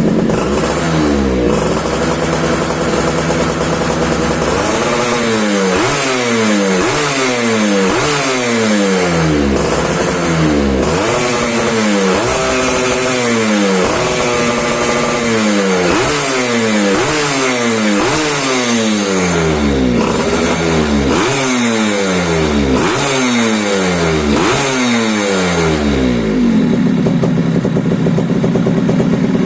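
Engine exhaust being tested: it idles steadily for a few seconds, then the throttle is blipped over and over, each rev rising and falling, about one every second and a half. Near the end it settles into a steady, slightly louder note.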